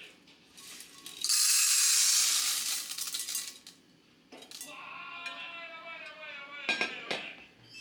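Dry adzuki beans poured into a bowl, a dense rattling rush of small hard beans lasting about two and a half seconds.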